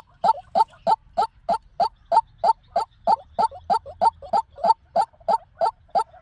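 White-breasted waterhen calling a rapid, even series of short, harsh notes, about three a second.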